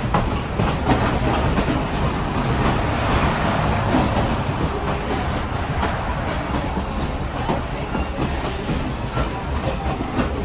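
Passenger train rolling along the track, heard from aboard: a steady rumble with the wheels clattering over the rail joints.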